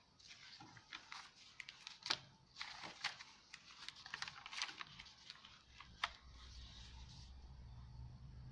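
Pages and paper embellishments of a handmade journal being turned and handled: soft, irregular paper rustles and small clicks, with a sharper tick about two seconds in and another about six seconds in.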